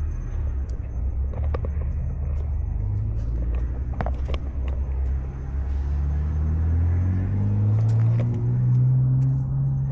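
Low rumble of a motor vehicle engine that rises in pitch through the second half, with a few sharp clicks.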